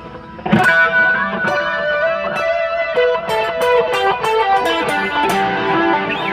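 Fender Stratocaster electric guitar on a clean setting, playing a melodic line of single picked notes that ring into one another, starting with a sharply struck note about half a second in.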